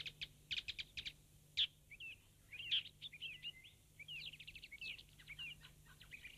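Small birds chirping and twittering: quick short notes and little sweeping chirps, several overlapping, over a faint low hum.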